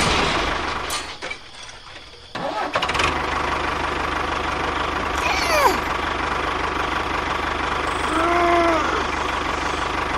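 A tractor engine starts a little over two seconds in, then runs steadily at idle with an even low pulse. A short falling squeal comes near the middle, and a brief horn-like tone comes near the end.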